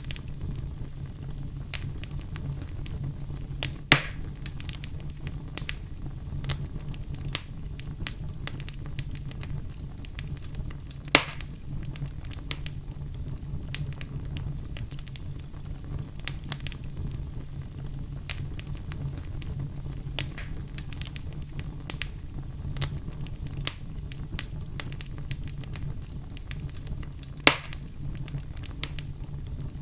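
Wood fire in a fireplace crackling steadily over a low rumble of the flames, with frequent small clicks and three louder sharp pops.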